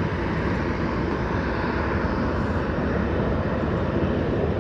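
Jet engines of a Southwest Airlines Boeing 737 airliner running past, a steady, even noise strongest at the low end.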